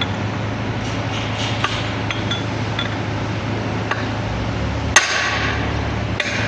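Light metallic clinks, then one sharp metal-on-metal strike about five seconds in that rings briefly, over a steady low hum.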